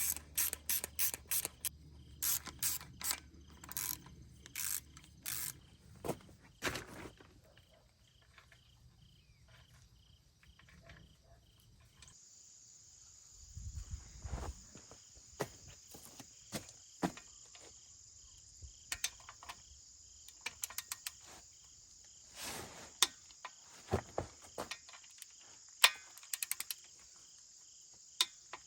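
Irregular sharp clicks and clinks of hand tools working on metal, ratchet strokes among them, quick and close together in the first few seconds and then more scattered. A little before halfway a steady high-pitched hum sets in and continues under the clicks.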